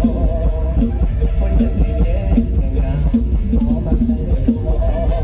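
Mor lam band music: a drum-kit beat under a plucked-string and melodic line, playing steadily.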